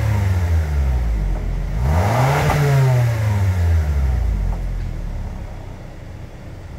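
Exhaust of a 2023 Toyota RAV4's 2.0-litre naturally aspirated four-cylinder through an aftermarket Thunder SC-type muffler with left and right outlets. A rev falls away at the start, then one quick throttle blip about two seconds in drops back to idle, and the sound fades toward the end.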